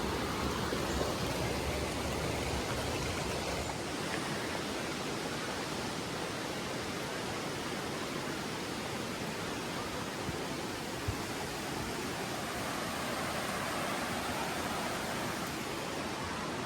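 Steady, even rushing of running water, like a creek flowing nearby, with one faint knock about eleven seconds in.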